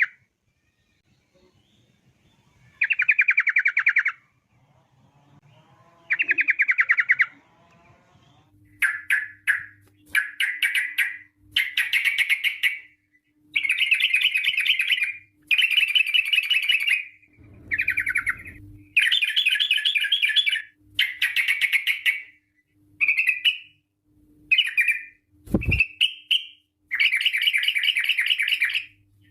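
Yellow-vented bulbul (trucukan) singing its fast trilled song in phrases about a second long. Three phrases come a few seconds apart, then the phrases follow each other almost without a break from about eight seconds in. There is a faint hum, and a single thump near the end.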